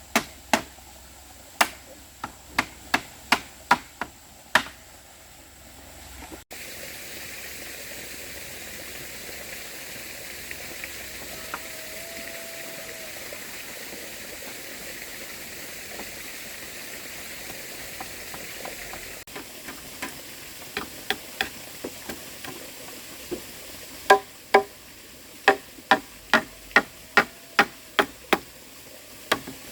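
Chopping strikes on a cutting board, a steady series of sharp hits, then steady sizzling of food frying in a pan for about thirteen seconds, then a brisker run of chopping strikes, about two a second.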